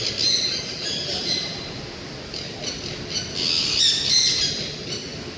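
Parrot squawking in a series of harsh, high-pitched calls, loudest about three and a half to four and a half seconds in.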